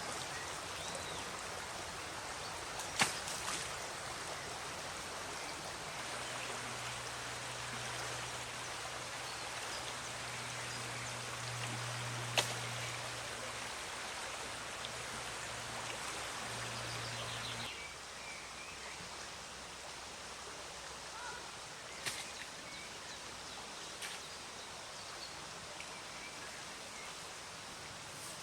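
River water flowing, a steady rush, with a few sharp clicks scattered through it. A low steady hum sits underneath for about ten seconds and stops where the sound drops a little, after which the water is quieter.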